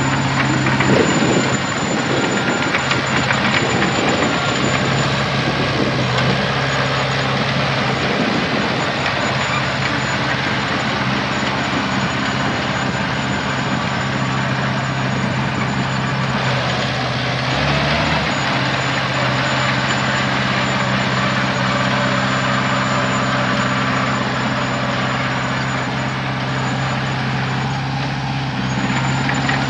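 Heavy diesel engine running steadily under a thin, high whine, with a short low surge just past halfway.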